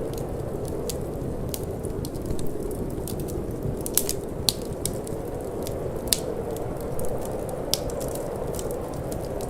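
Wood fire crackling in a fireplace, with irregular sharp pops, the loudest about four and six seconds in, over a steady low rush of wind.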